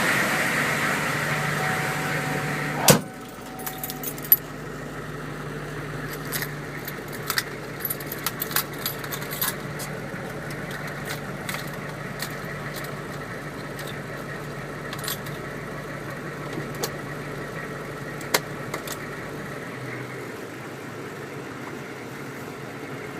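GEP 6.5L V8 turbo diesel idling with a steady hum. About three seconds in there is a single loud thump, after which the engine sounds quieter. Scattered light clicks and rattles follow.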